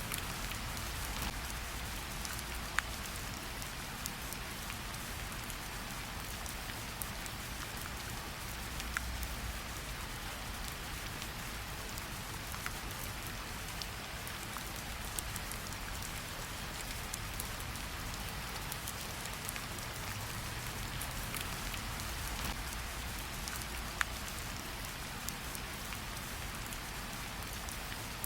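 Steady rainfall hissing evenly, with a few louder single drops striking now and then, over a low rumble.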